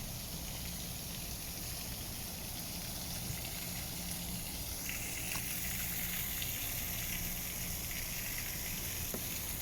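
Steady outdoor background noise with a high hiss, no distinct events; a faint higher-pitched band joins about halfway through.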